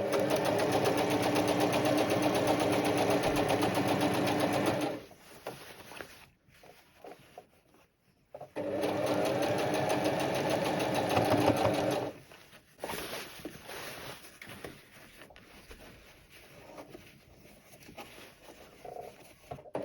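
Electric sewing machine stitching in two steady runs, the first about five seconds long and the second about three and a half, with softer scattered handling sounds between and after them.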